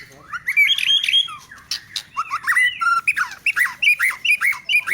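White-rumped shama (murai batu) singing a fast, aggressive run of short sliding whistled notes mixed with sharp clicks and harsh calls.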